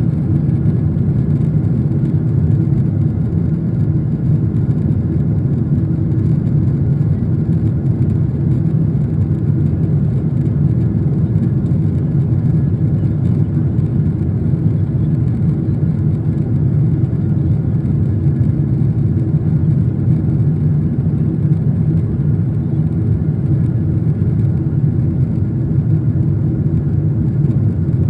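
Steady drone of an airliner in flight heard inside the cabin: engine and airflow noise with a deep rumble and a few faint steady tones above it.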